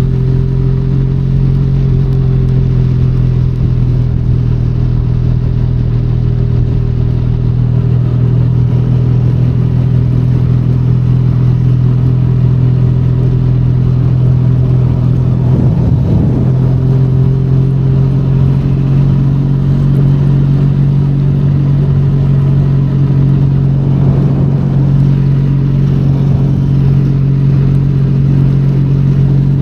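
Benelli Leoncino 500 Trail's parallel-twin engine running at a steady cruise as the motorcycle rides along, its pitch holding level.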